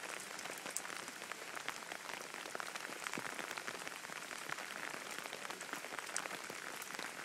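Heavy rain falling steadily, a dense spread of small drop hits.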